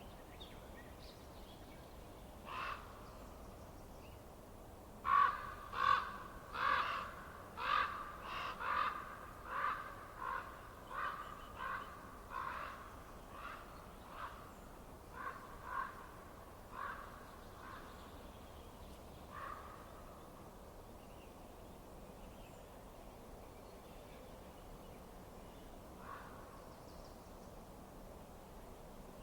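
A bird calling in a long run of about twenty short, pitched calls, loudest about five seconds in, thinning out and fading by about twenty seconds, with one faint last call near the end, over a steady low hiss.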